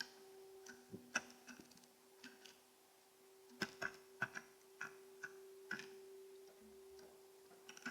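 Faint, irregular taps and clicks of a white-breasted nuthatch pecking at seed on a bird feeder, in small clusters with short pauses, over a steady low hum.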